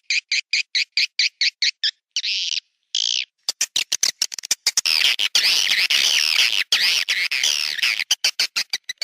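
Swiftlet calls from a roosting lure track: a rapid series of sharp chirps about eight a second, two longer buzzy notes about two and three seconds in, then a dense chorus of overlapping twittering before the quick chirps return near the end. It is the kind of call played in swiftlet houses to make the birds settle and roost.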